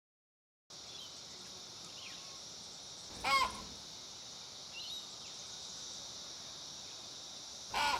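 A steady high insect buzz with faint chirps of small birds, and a loud, harsh bird call about three seconds in and again at the very end. It starts after a moment of silence.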